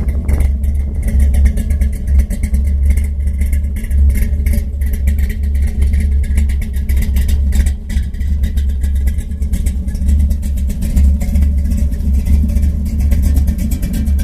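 1955 Ford Ranch Wagon's 514-cubic-inch Ford Racing V8 running, its exhaust a loud, rapid, steady pulsing with the level swelling and dipping.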